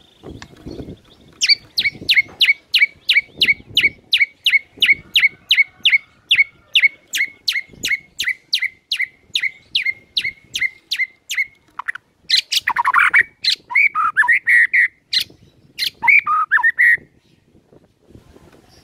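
White-rumped shama (murai batu) singing: a long run of about forty identical sharp notes, about four a second, each dropping quickly in pitch. About twelve seconds in, the run gives way to a few seconds of varied warbling phrases.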